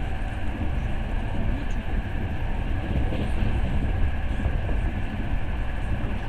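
Passenger train carriage running steadily along the rails, a continuous low rumble of wheels and car body heard from inside the compartment.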